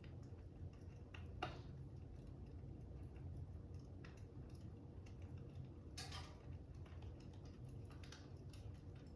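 Faint fire crackling: a steady low rumble with a few sharp pops and snaps scattered a second or two apart, the sharpest about a second and a half in.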